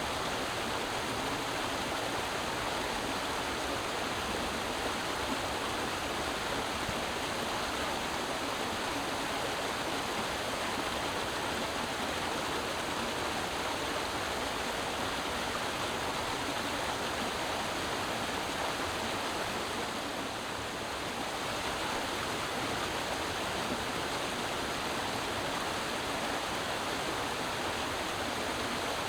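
Creek water running over rocks, a steady rush with no pauses, dipping slightly about two-thirds of the way through.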